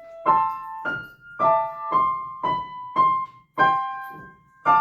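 Piano played slowly. About eight notes and broken-chord tones are struck one after another, roughly two a second, each ringing and fading before the next.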